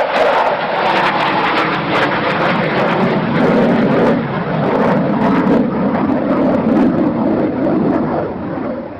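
Aircraft flying past, loud and continuous. Its engine note drops in pitch about three to four seconds in as it goes by, and the sound eases slightly near the end.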